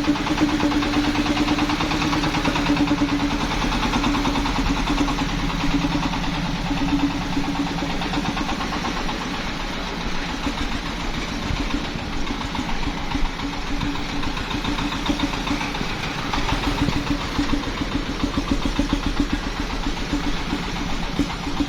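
Engine of a mobile rice-milling machine running steadily at idle, a fast, even chugging with a steady hum.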